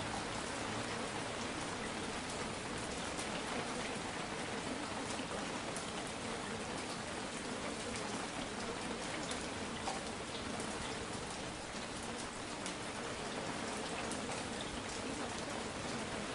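Steady rain with faint scattered drop ticks, used as the masking track of a subliminal audio that carries affirmations.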